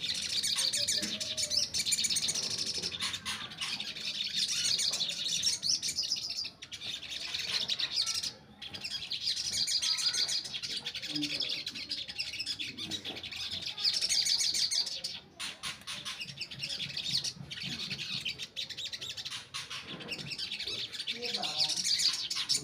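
Untrained sogon (crested jay) singing, a dense run of chirps and trills with a few brief pauses.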